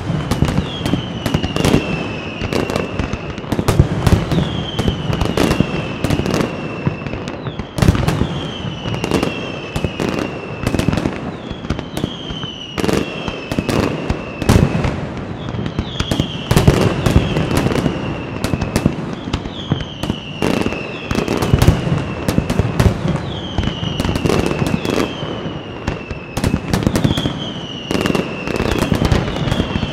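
Aerial fireworks bursting in rapid, continuous succession, many sharp bangs a second, with high whistles that fall in pitch every couple of seconds.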